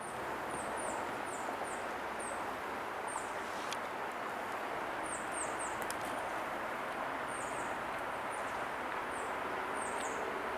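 Small birds chirping, short high downward-slurred notes in quick runs of two to five, over a steady rush of distant highway traffic. A few faint clicks.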